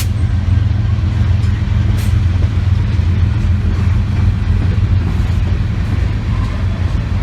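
Steady low rumble of a train, with a brief hiss about two seconds in.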